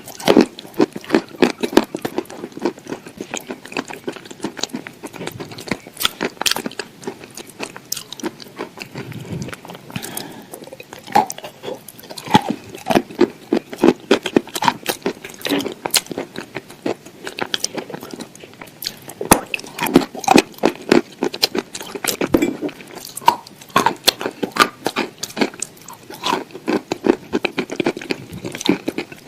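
Close-up crunchy chewing: rapid, irregular crunches and bites of hard, crisp food going on throughout.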